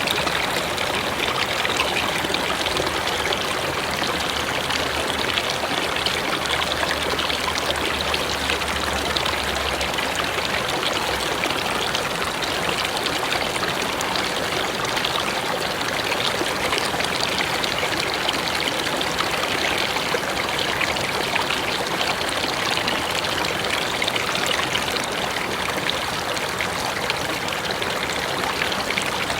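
Mountain river flowing steadily over rocks: an even, unbroken rush of water.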